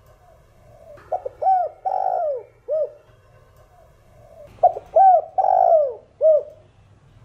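Spotted dove cooing twice. Each phrase is a few short arched coos and one longer drawn-out coo, with softer cooing in between.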